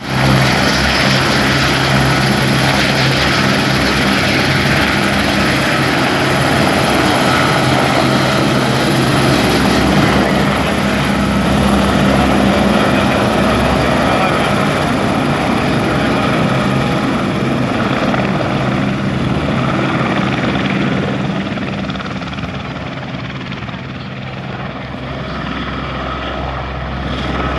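Helicopter running close by, its engine and rotor noise loud and steady; it eases off a little about three quarters through and builds again near the end.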